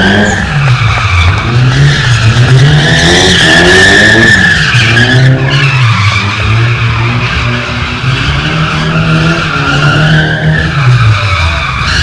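A car drifting: its engine revs rise and fall several times while the tyres squeal steadily.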